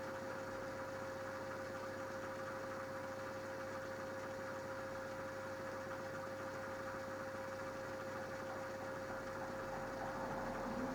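Minicolo mini washing machine running through its wash cycle: a steady motor hum carrying one constant high-pitched tone, with a slight change in the sound near the end.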